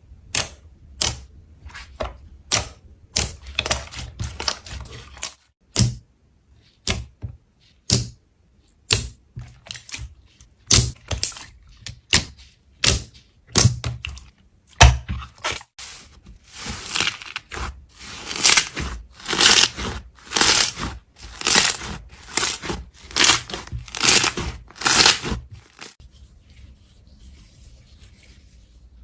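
Slime being pressed and poked by hand, giving a run of sharp pops and crackles, about one or two a second. From about halfway through they come as longer, louder crackling squelches.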